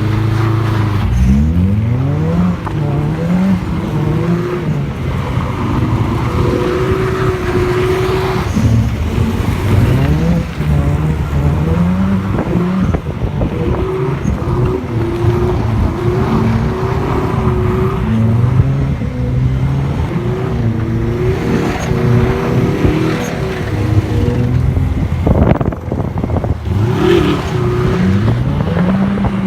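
Subaru Forester's flat-four boxer engine revving up and down again and again as the car is drifted on snow, its pitch climbing and dropping every second or two.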